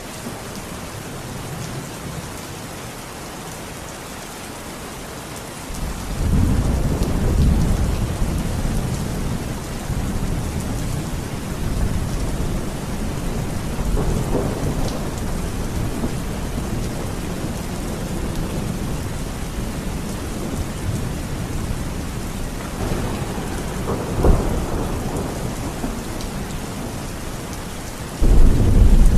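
Steady rain with rolling thunder. A deep rumble swells in about six seconds in and rolls on, and a louder crack of thunder comes near the end.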